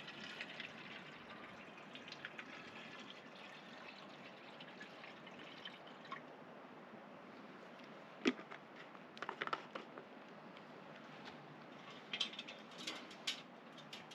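Faint liquid pouring and dripping, with a few sharp clicks and knocks, the loudest about eight seconds in.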